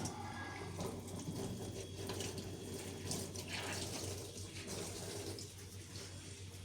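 Water running and splashing, as from a tap into a sink, coming and going in uneven surges over a steady low hum.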